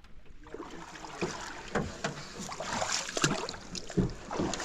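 A canoe being paddled: the paddles splash through the water, with a few sharp knocks along the way.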